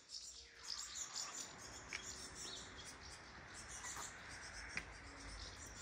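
Small birds chirping and twittering over a soft steady background hiss, with a couple of sharp ticks.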